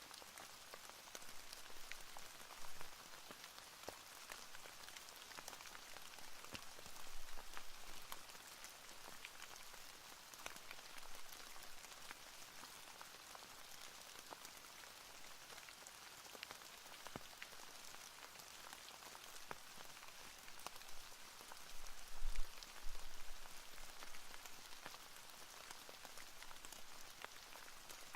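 Steady rain falling, with individual drops ticking throughout. A few soft low thumps come about 7 seconds in and again around 22 to 23 seconds, the loudest moments.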